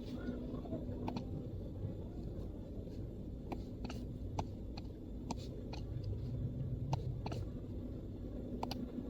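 Scattered single keystrokes on a MacBook keyboard, about eight light clicks spread unevenly over nine seconds, over a steady low background rumble.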